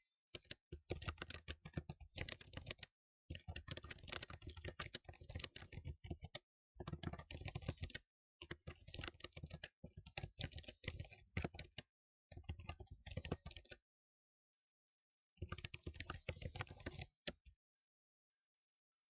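Fast typing on a computer keyboard: rapid runs of key clicks lasting one to three seconds, broken by short pauses, with a longer pause of about a second and a half about two-thirds of the way in.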